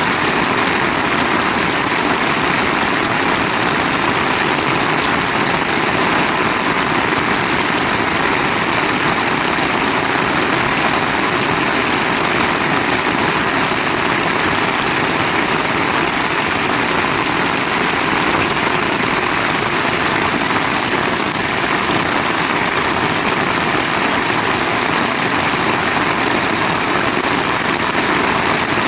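Heavy rain falling, a loud steady hiss that doesn't let up.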